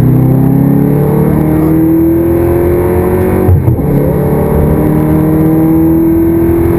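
Audi R8's V8 with a full aftermarket exhaust accelerating, heard inside the cabin. The engine note climbs steadily, breaks with a brief louder blip at an upshift about halfway through, then climbs again from a lower pitch.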